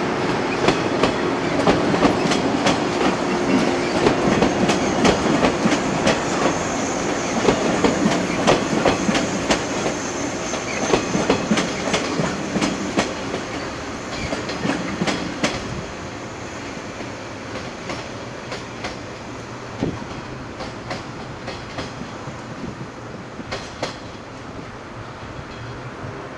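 Train set A07 of the Okayama depot running on the track, its wheels clattering over the rail joints in a quick run of clicks. It fades steadily as the train moves away.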